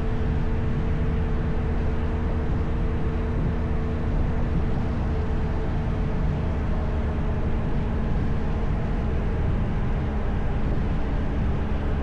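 Motorcycle engine running steadily while riding, its note holding a nearly constant pitch over a continuous low rumble.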